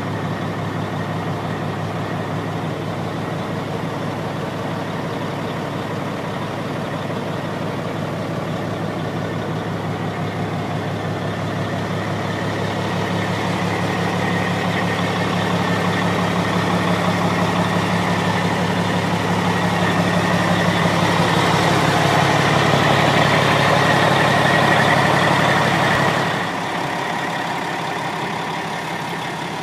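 1996 Ford B750 truck's Caterpillar diesel engine running steadily. It grows gradually louder through the middle, then drops off abruptly near the end.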